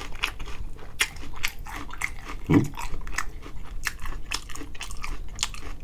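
Close-up chewing of crispy fried food: many small crunches and wet mouth clicks, several a second. A brief low hum from the eater comes about two and a half seconds in.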